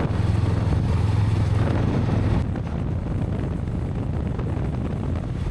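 Honda CB500X parallel-twin engine running steadily on the move, with wind rushing over the microphone; the wind rush eases a little about halfway through.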